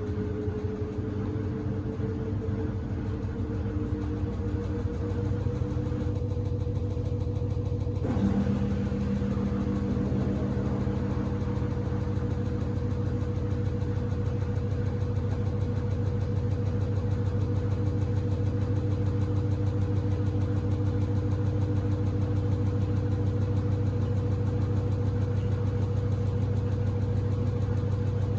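Samsung WD70T4047CE washing machine running its cycle with a steady motor whine that rises slowly in pitch over the first few seconds, as the drum speeds up, and then holds level over a low hum. At about eight seconds a click sounds and a second, lower steady hum joins in.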